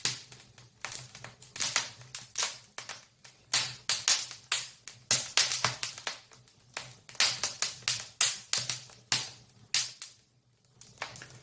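Wood fire burning in a newly built open fireplace, crackling and popping irregularly many times a second. A low steady hum of the draught, which has just got going, runs underneath.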